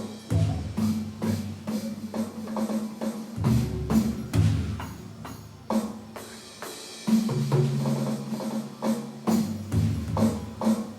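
Drum kit with a timpani-type sound played in a busy solo: rapid, irregular strokes on low, tuned drums whose pitched tones ring on between hits.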